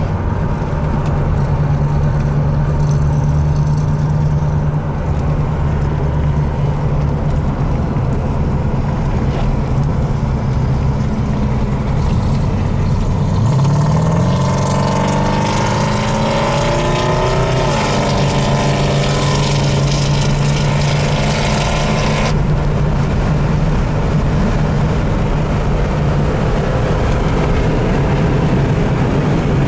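Car engine heard from inside the cabin, running at a steady drone on the track. About halfway through it pulls harder, its pitch rising for a few seconds before dropping at a gear change. A rushing noise joins it during the climb and cuts off abruptly.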